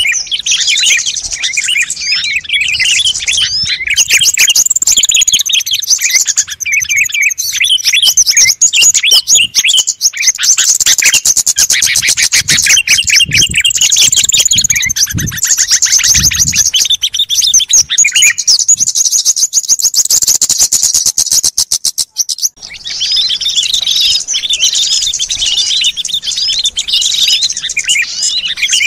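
Bird-lure recording of many small birds chirping and calling at once, a dense, noisy chorus of overlapping high calls, with a fast rattling trill through the middle. It stops for a moment about three quarters of the way in, then resumes.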